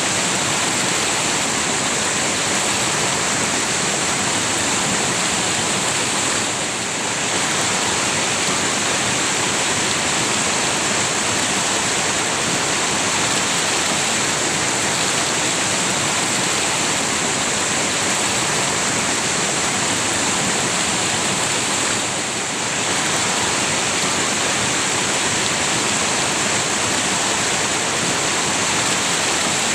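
River water rushing and splashing as a steady, dense hiss of flowing water, dipping briefly twice.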